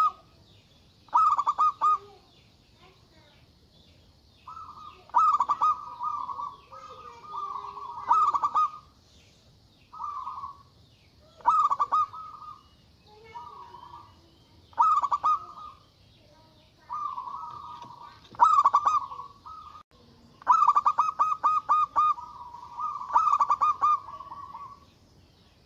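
Zebra dove (perkutut) cooing: a string of short phrases of rapid stuttering, trilled coos, repeated every one to two seconds.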